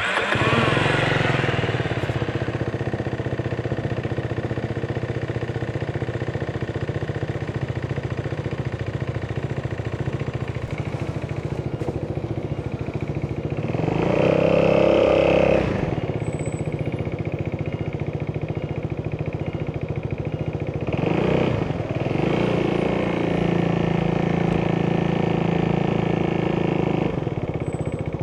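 Italjet Dragster 200 scooter's single-cylinder four-stroke engine running through an Akrapovic exhaust, with the revs rising and the note getting louder about 14 seconds in and again briefly about 21 seconds in.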